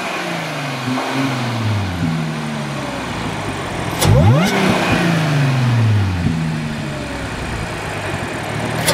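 Tuned Audi S5's supercharged 3.0-litre V6, running through an X-pipe and muffler-delete exhaust, being revved. The revs jump sharply about four seconds in and again at the very end, and sink slowly back in between.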